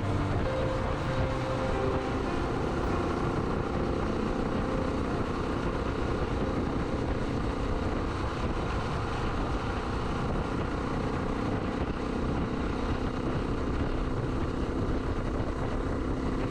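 Suzuki DR125S single-cylinder motorcycle engine running at a steady cruise, with the wind and road noise of riding.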